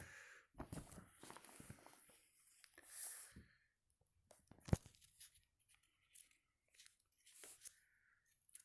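Near silence: room tone with faint scattered rustles and small clicks, and one sharper click a little before the middle.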